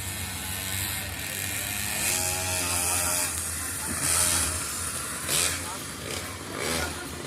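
Mini GP racing motorbikes running and passing, their engine noise swelling several times, with voices of onlookers mixed in.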